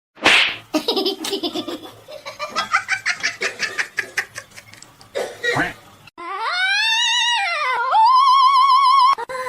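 A sudden loud burst, then rapid pulsed laughter for a few seconds. About six seconds in, a long high-pitched tone starts; it arches up and down, dips, then wavers steadily until it cuts off near the end.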